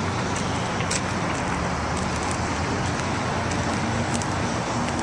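Steady outdoor background noise: a low rumble under a hiss, with a few faint light clicks.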